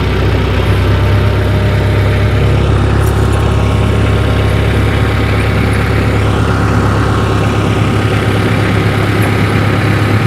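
Tractor engine running steadily at low speed, a constant low hum, as the tractor creeps forward to draw a tire chain over the tire.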